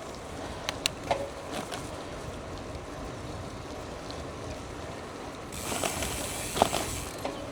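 Gravel bike rolling along a wet gravel trail: steady tyre noise with small clicks and knocks from the bike, and a louder hiss lasting about two seconds near the end.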